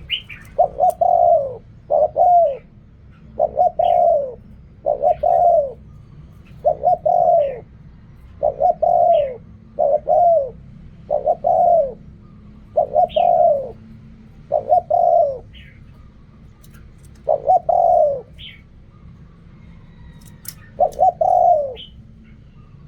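Spotted dove cooing, a steady run of about a dozen loud coo notes in quick succession, each half a second to a second long and dipping in pitch, with short pauses between phrases.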